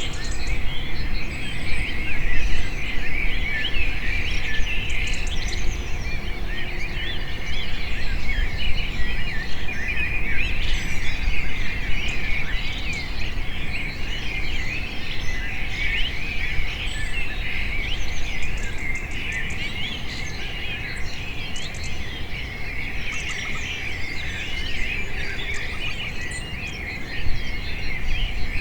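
Many small birds chirping and singing at once, a dense chorus of overlapping short calls and trills, over a low steady rumble.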